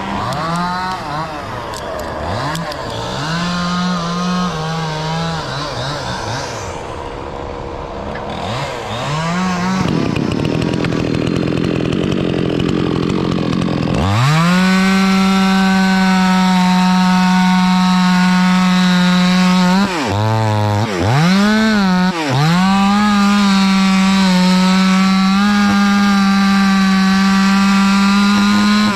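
Chainsaw running: the engine revs up and down repeatedly for the first half, then is held at a high, steady pitch for long stretches, dropping off and picking up again twice in quick succession a little past the middle.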